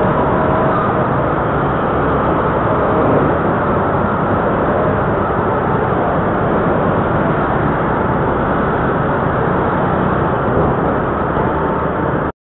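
Steady engine and road noise inside a moving car, as picked up by a dashcam microphone; it cuts off suddenly near the end.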